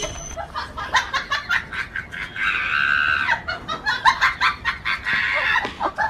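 Chickens clucking in quick, short calls, with a longer held call about halfway through.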